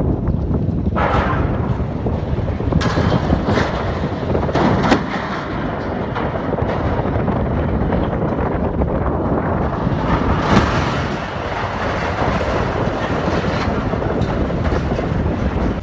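A heavy diesel tractor engine running hard, with wind buffeting the microphone and several sharp knocks.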